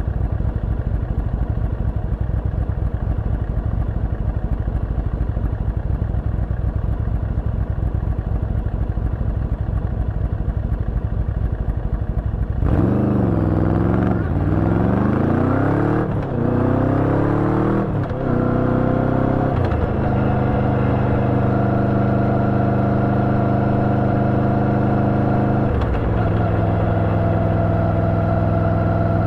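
Yamaha Vmax 1700's V4 engine with an Akrapovič exhaust idling with a pulsing rumble. About 13 s in it pulls away, its pitch climbing through several quick gear changes. It then settles into a steady cruise, with one more shift near the end.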